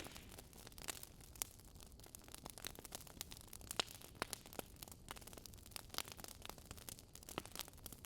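Wood campfire burning, with irregular sharp crackles and pops over a soft low hiss.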